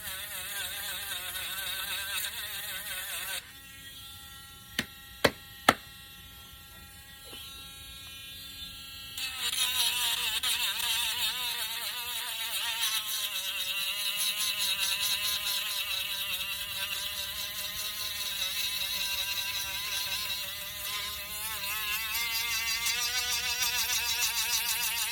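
Small electric sanding tool running with a high buzzing whine whose pitch wavers as it bears on the wood. About three seconds in it drops suddenly to a quieter steady hum, three sharp clicks follow, and around nine seconds in it runs loud and wavering again.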